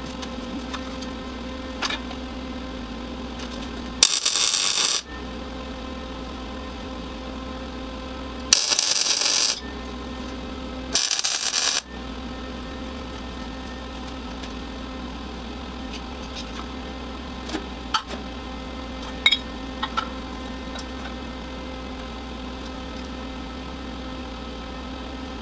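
Hand work on metal: scattered clinks and rattles of tools and parts over a steady hum. Three loud bursts of hissing noise, each about a second long, come about 4, 8.5 and 11 seconds in.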